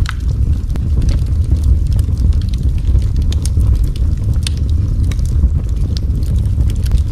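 Wood fire burning in a fireplace: a steady low roar with scattered crackles and pops, several a second.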